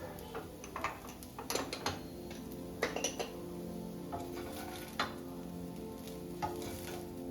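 Kitchen utensils clinking and scraping against cookware in a few scattered clusters of sharp clinks, the loudest about three seconds in and at five seconds.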